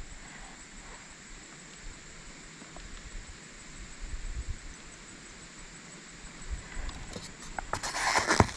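Faint outdoor background hiss with a thin, steady high-pitched whine, then a short burst of rustling and handling noise near the end.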